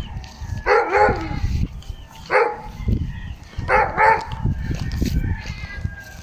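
An animal calling three times, a long wavering call, a short one, then a medium one, over a steady low rumble.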